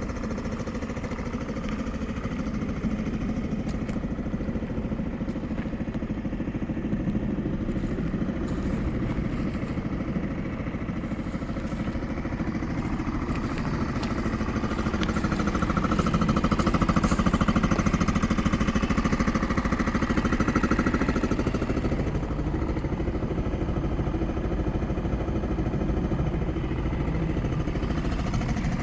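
Yamaha Majesty 125 FI scooter's fuel-injected single-cylinder four-stroke engine idling steadily. Past the middle it grows louder for about five seconds, then settles back to idle.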